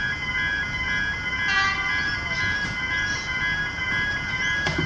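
Railway level crossing pedestrian gate alarms sounding: several loud electronic tones, some pulsing on and off, that drown out the crossing's Barker Technics electronic bells. A short click comes near the end.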